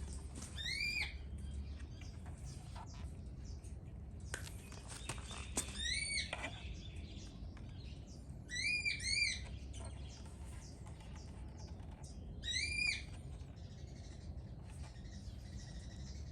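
A bird calling: short chirps that rise and fall in pitch, one at a time and once as a quick pair, a few seconds apart, over a faint steady low hum.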